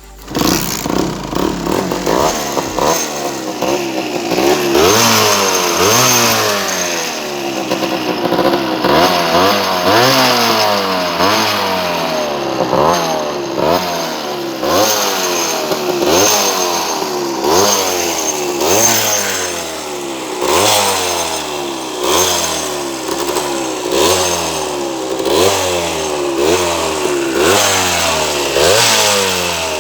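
Motorcycle engine being revved repeatedly in short blips, about once a second, the pitch rising sharply and dropping back each time.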